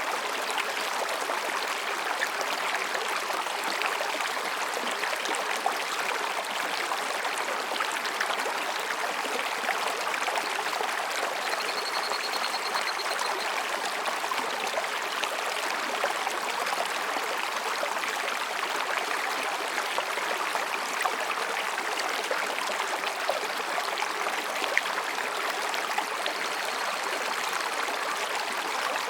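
Mountain stream rushing and babbling between rocks, a steady, dense water sound.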